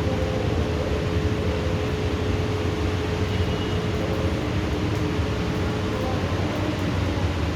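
Heavy rain falling steadily in a thunderstorm, an even rushing with no thunder claps.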